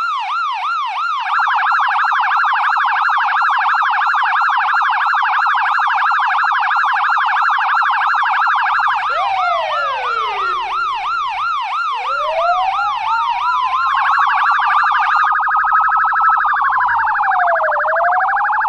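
US police car electronic siren starting suddenly in a fast yelp, its pitch warbling up and down several times a second. About nine seconds in, a slow wail joins it, sweeping down, then up, down and up again, and near the end the fast yelp stops while the wail carries on.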